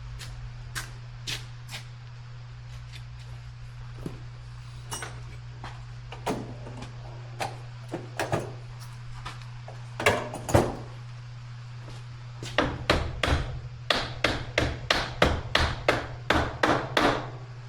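Hammer tapping on metal parts of a motorcycle: scattered single knocks, then a quick run of about a dozen strikes, roughly three a second, over a steady low hum.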